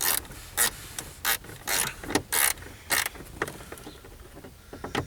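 Hand ratchet wrench worked back and forth on a bolt, giving a series of short rasping ratchet strokes, about two a second.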